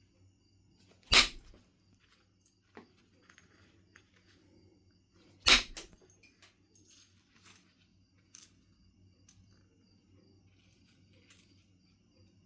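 Knife River Flint being knapped: two sharp percussion strikes on the stone, about a second in and again about four seconds later, with lighter clicks and taps of stone between and after them.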